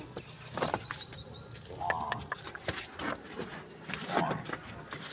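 A small bird chirping, a quick run of about eight short high notes in the first second and a half, amid scattered clicks and knocks and a couple of short lower calls.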